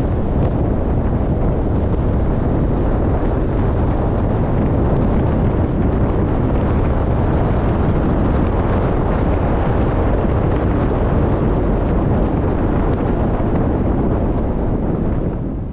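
Steady, loud wind rushing over the microphone over the running noise of a moving vehicle, easing off about fifteen seconds in.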